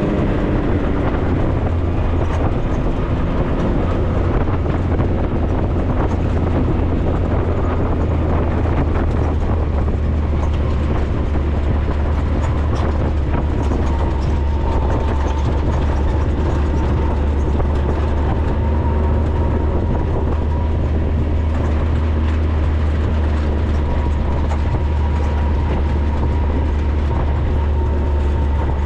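Can-Am Maverick side-by-side running steadily, heard from on board: a low, even engine and drivetrain drone with light rattling and clicking.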